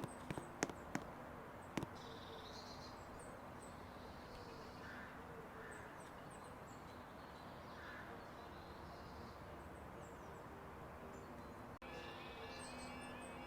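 Birds calling and chirping over a steady outdoor background hiss, with a few sharp clicks in the first two seconds.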